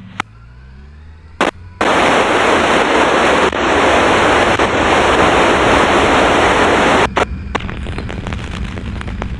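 Police scanner radio putting out a loud burst of static hiss for about five seconds, starting about two seconds in, then dropping to a quieter hiss broken by sharp squelch clicks. Under it at the start a motorcycle engine's pitch rises.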